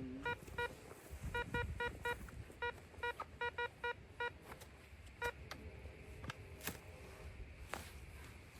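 Metal detector giving a run of short beeps, all at the same pitch, in irregular groups as the coil sweeps over a target. The beeping stops a little past halfway.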